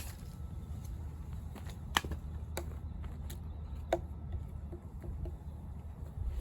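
Light knocks and clatters of firewood being handled while logs are split with an axe, two sharper ones about two and four seconds in, over a low steady rumble.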